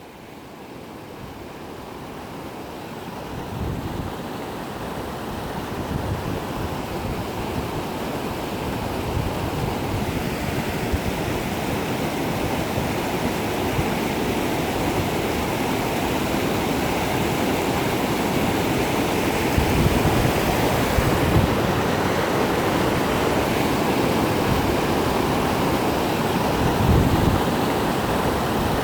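Waterfall: a steady rush of falling water, growing louder over the first several seconds and then holding steady.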